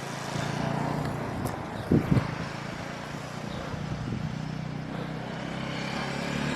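Motorbike engine running steadily, growing louder toward the end as it comes closer, with two short loud bumps about two seconds in.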